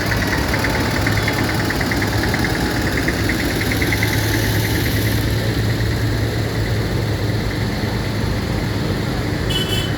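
Tractor engine idling steadily with a constant low hum, with a fast rhythmic ticking over it for the first half.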